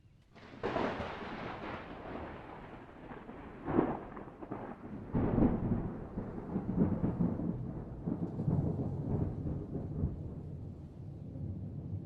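Thunder: a clap breaks out about half a second in, with sharper cracks near four and five seconds, then a long rolling rumble.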